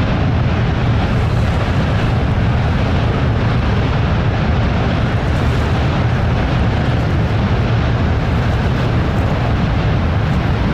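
Strong gusty wind buffeting the microphone: a steady, loud low rumble with a hiss above it.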